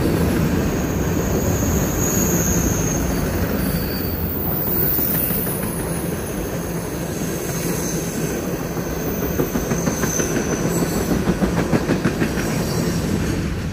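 Freight train of tank cars and covered hoppers rolling past on a curve: a steady rumble of steel wheels on rail, with a faint high wheel squeal now and then. From about nine seconds in, a quickening run of rhythmic clicks as the wheels cross rail joints.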